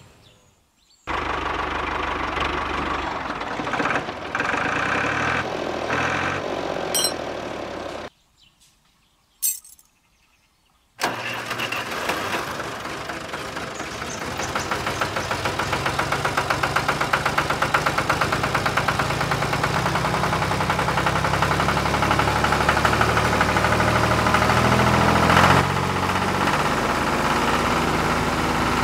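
Tractor engine being started: it turns over for several seconds and stops, gives one short burst, then catches about eleven seconds in and keeps running with an even, rapid knock that builds a little before settling near the end.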